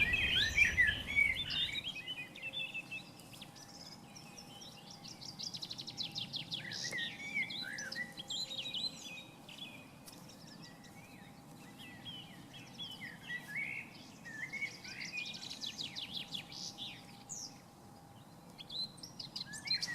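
Birds chirping: many short, varied chirps with two stretches of rapid high trills. A low rumble under the first two seconds stops abruptly.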